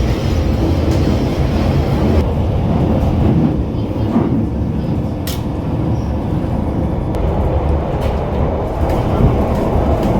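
London Underground Bakerloo line train heard from inside the carriage while under way: a loud, steady low rumble of wheels on rail and running gear, with a sharp click about five seconds in.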